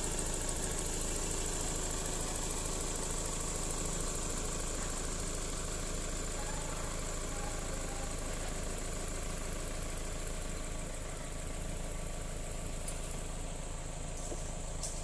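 Toyota Corolla engine idling steadily, with a thin, steady high-pitched tone above it; the sound drops slightly in level about two-thirds of the way through.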